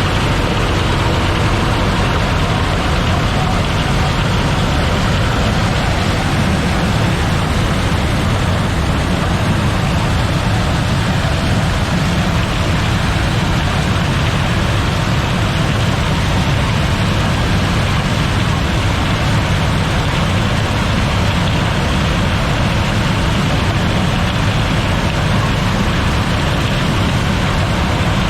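Claas Lexion 740 combine harvester running steadily: a heavy engine with a dense, even rush of machine noise and no change in pace.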